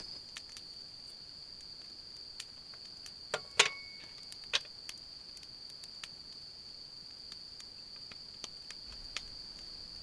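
Crickets or similar autumn insects trilling steadily in one unbroken high note, with a few scattered sharp clicks and knocks, the loudest about three and a half seconds in.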